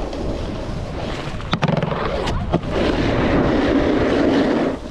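Snowboard sliding over snow with wind on the microphone. About one and a half seconds in, a few sharp knocks and a thud break in, then the board scrapes steadily on.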